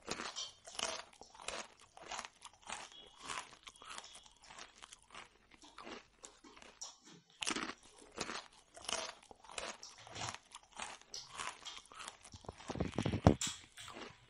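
Close-up chewing and crunching of crisp fried Indian sweets and breads (jalebi and puri), short crisp crunches about twice a second. A brief louder clatter comes about a second before the end.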